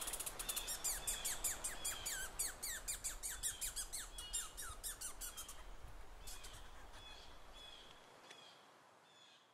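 A bird calling in a rapid series of short chirps, about four or five a second, that thin out and fade away over the last few seconds.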